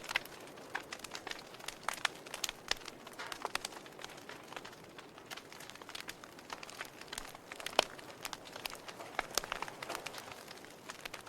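Wood fire crackling: irregular sharp pops and snaps over a soft hiss, with one louder snap near eight seconds in.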